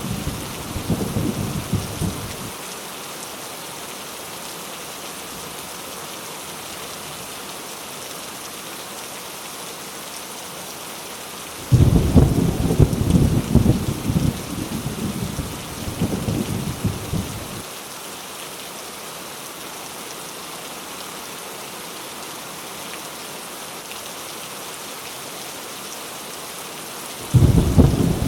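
Heavy rain falling steadily, with low rolls of thunder: one dies away about two seconds in, another breaks in suddenly about twelve seconds in and rumbles for around six seconds, and a third starts just before the end.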